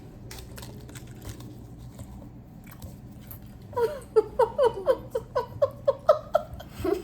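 Chewing a huge mouthful of gum, with wet clicks and smacks. About four seconds in comes a run of quick, pitched laughs, about five a second, lasting a couple of seconds.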